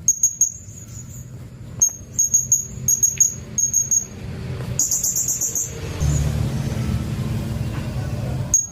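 Blue-crowned hanging parrot (serindit) giving short, sharp, high-pitched chirps in quick clusters, with a faster run of chirps about five seconds in. A low rumble fills the last couple of seconds.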